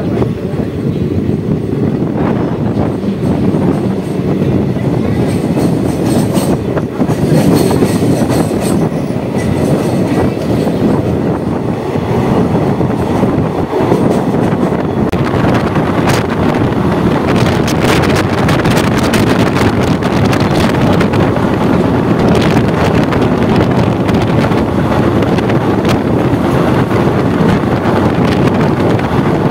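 ICF passenger coaches running on the rails, heard from an open coach door: a steady rumble of wheels on track, with clicks over rail joints that come thicker in the second half.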